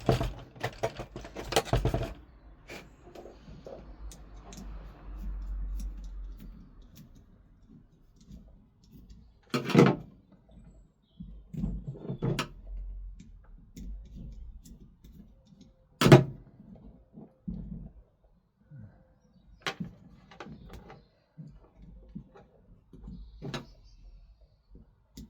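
Tools and small parts being handled: a rapid clatter of clicks in the first two seconds, then single sharp knocks every few seconds.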